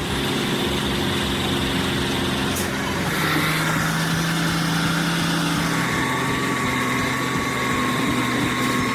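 A heavy machine's engine running steadily, its pitch shifting about three seconds in and again about six seconds in.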